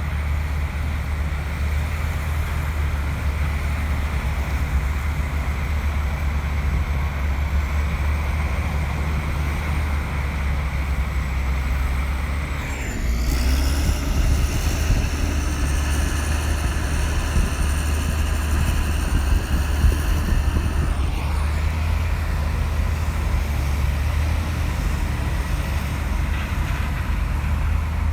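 Komatsu bulldozer's diesel engine running steadily. About a third of the way in it pulls harder and louder for several seconds, with a higher whine over it, then drops back to its steady run.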